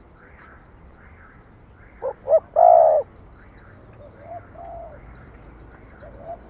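Spotted dove cooing: a loud phrase of two short notes and a longer held note about two seconds in, followed by fainter coos. Faint chirping of other small birds runs underneath.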